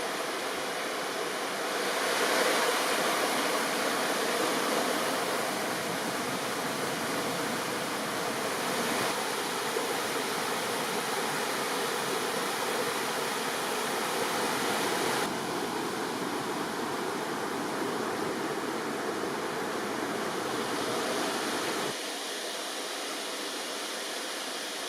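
Steady rushing of a river's flowing water. The sound changes abruptly twice, about fifteen and twenty-two seconds in, and is a little quieter and thinner after the second change.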